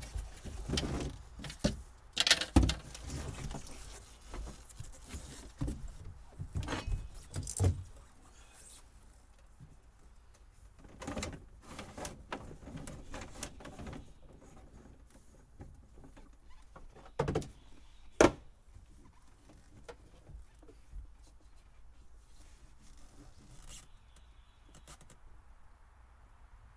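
Irregular knocks, clicks and rustling from old boat wiring being handled and pulled out, busiest in the first eight seconds, with two sharp knocks a little past the middle.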